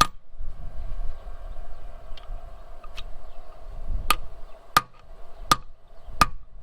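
Hammer striking metal with a sharp ringing clang: one blow at the start, another about three seconds in, then steady tapping at a little over one blow a second, to shock a twisted-off bolt loose.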